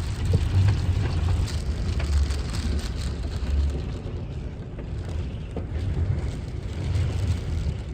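Strong wind gusting against the motorhome, with a heavy rumbling buffet on the microphone that swells and eases.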